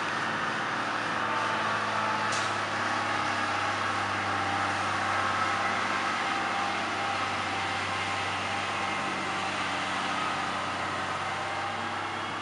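Cummins diesel engine of a 1985 International 2375 water truck idling steadily.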